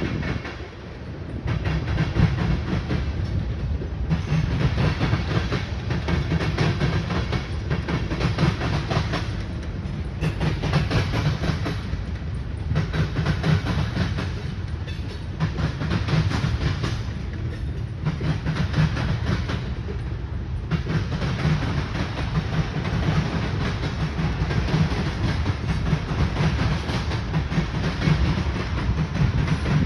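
Manifest freight train's cars rolling past, steel wheels rumbling and clacking on the rails, swelling and easing every second or two as car after car goes by.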